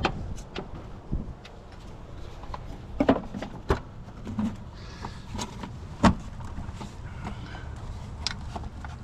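Scattered clicks and knocks of hand tools and parts being handled while engine-bay components are put back together, a dozen or so separate strikes with the loudest a little after three seconds and at about six seconds.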